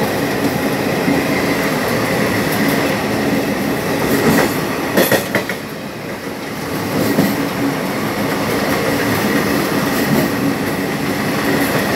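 Passenger coaches of an Indian Railways train running at speed on the adjacent track, heard from a moving EMU: steady wheel-on-rail rumble with clickety-clack over rail joints. A short burst of sharp clatter comes about four to five seconds in.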